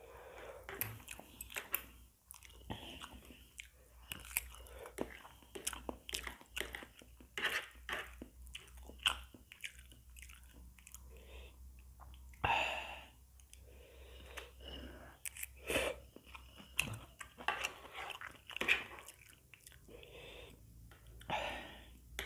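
Close-up chewing of fried instant noodles and egg, with short sharp clicks of a metal spoon and fork against the plate between mouthfuls.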